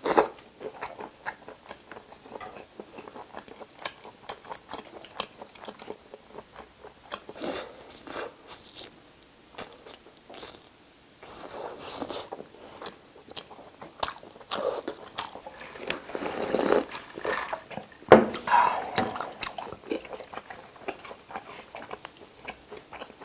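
Close-miked chewing of a cheese-topped pizza: a steady run of small wet mouth clicks, with a few louder crunchy bites spread through, the sharpest near the end.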